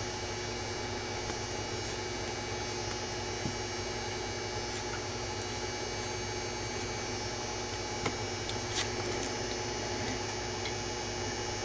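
Steady electrical hum with a few faint small clicks and rustles of thin 24 gauge wire being twisted by hand.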